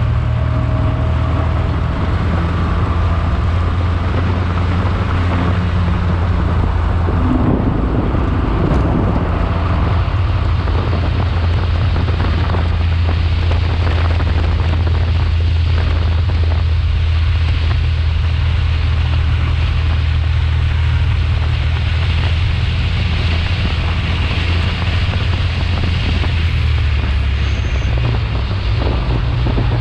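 Race car engine running hard on track, heard from on board, with a steady low drone and wind noise on the microphone.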